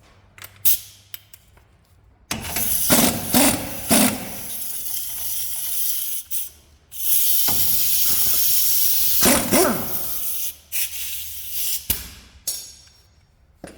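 Two long bursts of loud hissing spray, one about two seconds in and one about seven seconds in, with short metallic clicks of tools around them.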